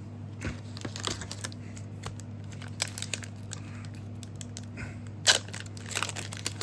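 A trading-card booster pack wrapper being torn open and crinkled, with cards handled in small clicks and rustles; the sharpest rip comes about five seconds in. A steady low electrical hum runs underneath.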